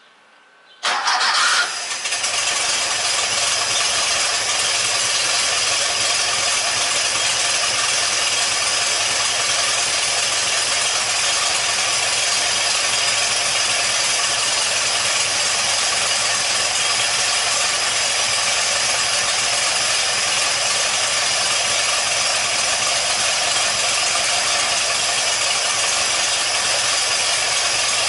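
Porsche 914's air-cooled engine starting about a second in, catching quickly with a short burst, then running steadily at idle.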